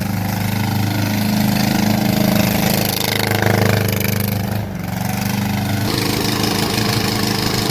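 Tata Ace engine of a small homemade tractor running steadily, its level dipping briefly a little past halfway.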